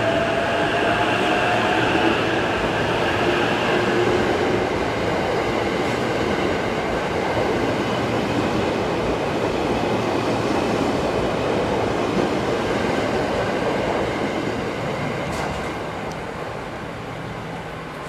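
E353-series electric limited express pulling out of the platform and running past: the traction motors' whine rises in pitch over the first few seconds, over a steady rumble and clatter of wheels on the rails that fades away over the last few seconds.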